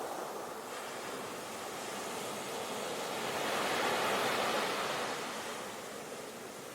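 Sea waves washing on a shore, a steady rush of surf that swells about four seconds in and then ebbs.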